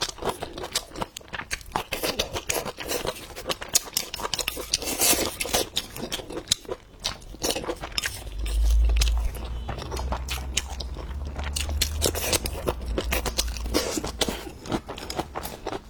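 Close-miked eating: irregular crisp crunches and wet chewing clicks as a mouthful of food is bitten and chewed. A low rumble runs underneath from about halfway in until near the end.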